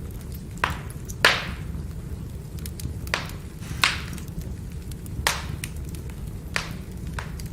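Firewood burning with a steady low roar, broken by sharp crackling pops about seven times, the loudest a little over a second in.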